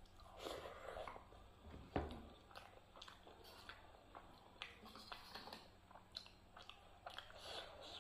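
Close-up chewing and mouth sounds of a person eating rice and dal by hand, in irregular clicks, with one sharper click about two seconds in. In the second half a metal spoon scrapes and clinks in a steel dish of tomato chutney.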